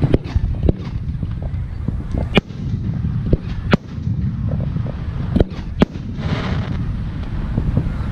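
Fireworks aerial shells bursting: sharp bangs every second or so at irregular spacing, with a brief hiss about six seconds in, over a steady low rumble.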